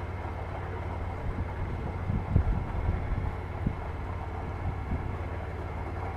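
Small motorboat's engine running steadily with a low hum as the boat moves across the lake, with some wind on the microphone and a few soft low thumps around the middle.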